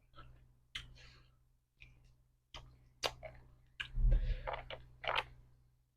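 Close-up eating of seafood papaya salad with fresh blood cockles: a string of sharp clicks and short chewing noises, the longest and loudest about four seconds in.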